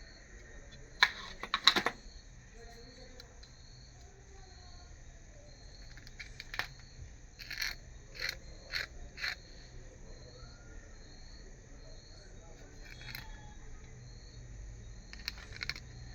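A cricket chirping steadily in the background, about two chirps a second. Over it come sharp clicks and taps, loudest in a quick cluster about a second in, with a run of four or five more in the middle.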